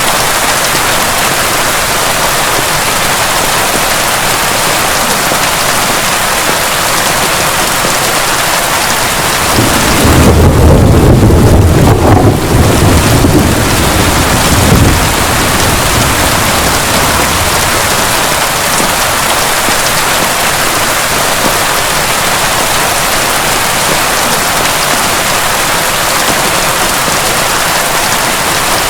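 Steady heavy rain pouring down. About ten seconds in, a roll of thunder rumbles deeply for around five seconds and then fades back into the rain.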